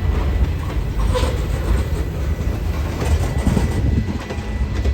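Train passing, with a steady low rumble of wheels on rail.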